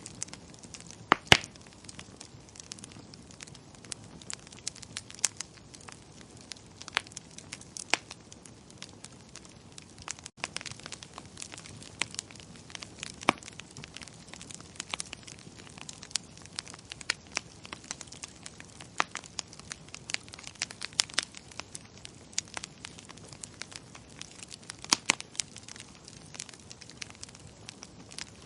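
Wood fire crackling in a fireplace: irregular sharp pops and snaps over a soft steady hiss, with the loudest pops about a second in and again near the end.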